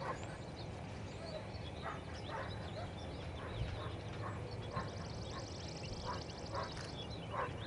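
Outdoor ambience with scattered short bird calls, a steady low rumble, and a high, rapid buzzing trill for about two seconds in the second half.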